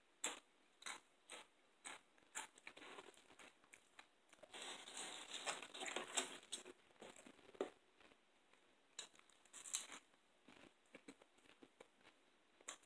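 Crisp chips being bitten and chewed close to the microphone: a string of sharp crunches and mouth clicks, busier and more continuous about halfway through.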